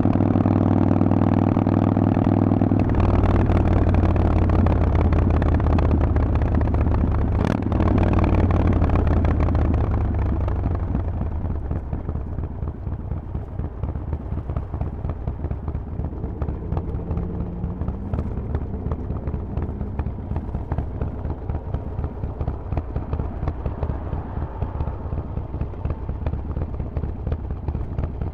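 Harley-Davidson Forty-Eight's air-cooled V-twin running through a Vance & Hines exhaust while riding. It holds steady revs, changes note about three seconds in, and gives a single sharp click a few seconds later. After about ten seconds the engine note falls and quietens into uneven low-rev pulsing as the bike slows.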